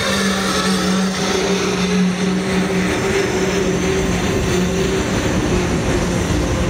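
Freight train of autorack cars rolling past, a steady rumble of wheels on rail. A steady low tone sounds along with it and fades out about three seconds in.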